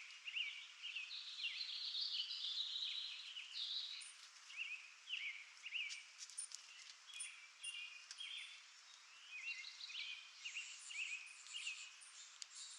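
Birds chirping and calling: many short, high, overlapping notes, most of them quick downward-sweeping chirps, in a busy chorus over a faint steady outdoor hiss.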